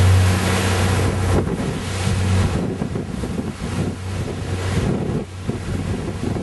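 A boat's engine running with a steady low hum under wind buffeting the microphone and rushing water. The hum fades about two and a half seconds in, leaving mostly wind and water.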